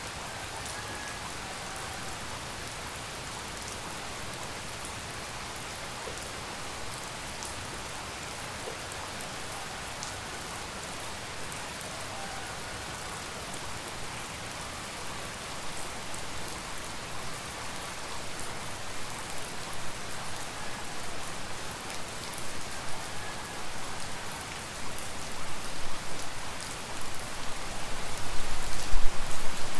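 Steady tropical rain falling on surfaces. It grows louder and more uneven from about halfway, loudest near the end.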